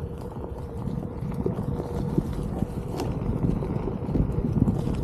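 Onewheel GT electric board riding over a rough dirt trail: a steady motor whine under irregular knocks and rumble from the tyre over bumps, with wind on the microphone.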